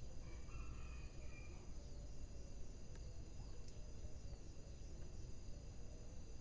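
Wood fire burning in a fireplace: a low, steady rumble with a rare faint crackle, over steady high-pitched tones.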